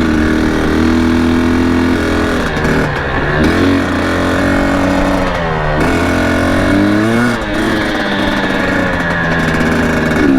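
Dirt bike engine running under riding load. Its revs dip and climb back a few times as the throttle and gears change.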